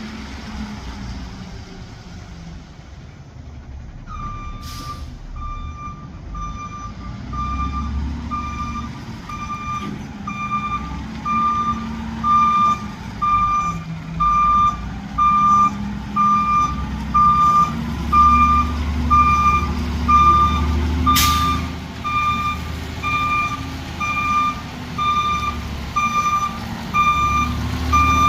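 A garbage truck backing up: its reversing alarm beeps steadily about once a second, starting a few seconds in, over the diesel engine's rumble, which rises and falls. A sharp crack cuts through twice, once early in the beeping and once near the two-thirds mark.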